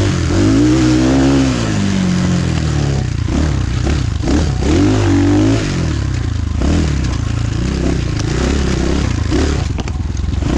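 Dirt bike engine revving loudly, its pitch swelling up and falling back several times.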